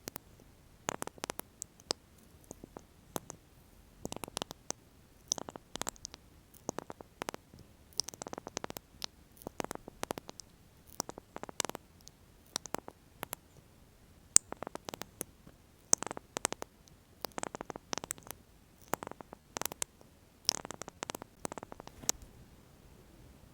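Lip oil being applied with its applicator close to the microphone: irregular clusters of small sticky, wet clicks and squishes with short quiet gaps between them.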